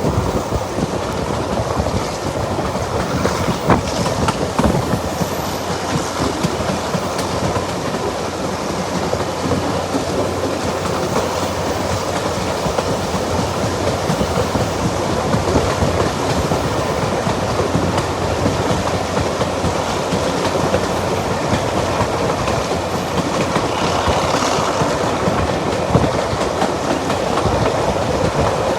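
Diesel-hauled heritage train running along the line: a steady rumble of wheels on rail with a few sharp clicks.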